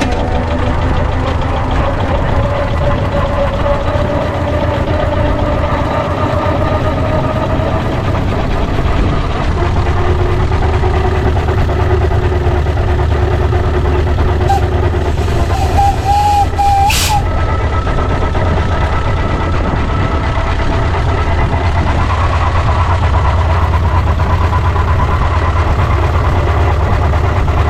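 A 6-inch scale Foden C-type double high-pressure steam wagon running under way, giving a steady low rumble with faint pitch glides. About two-thirds of the way through there is a brief, sharp hiss.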